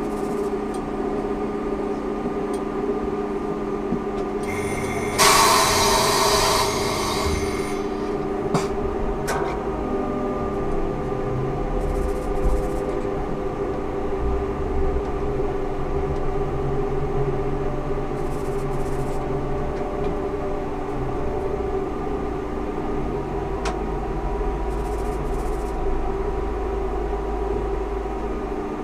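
Ikarus 280T trolleybus with GVM electrical equipment: a steady electrical hum of several held tones, broken about five seconds in by a loud hiss of compressed air lasting about two seconds, then a couple of sharp clicks. A low rumble of the bus rolling along comes in about twelve seconds in.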